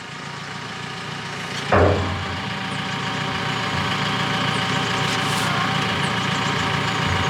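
JCB telehandler's diesel engine running as it lowers a load, its level rising gradually over the first few seconds, with a short thump about two seconds in.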